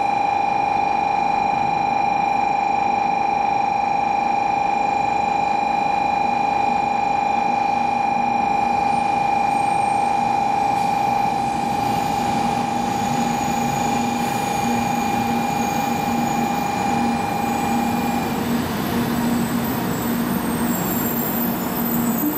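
A 700 series Rail Star Shinkansen train rolling slowly into the platform and coming to a stop, with a steady high-pitched tone that cuts off about 18 seconds in as the train halts. A low pulsing hum sets in during the second half.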